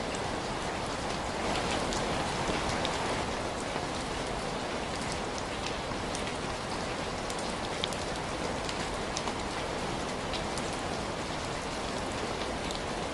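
Steady rain falling, an even hiss with scattered small high ticks throughout.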